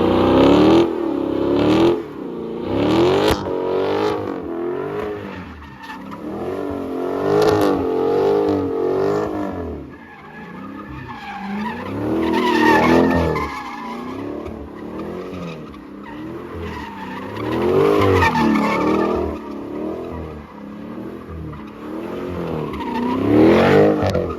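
Car sliding in circles with its engine revving up and down over and over and its tyres squealing, the sound swelling louder about every five to six seconds.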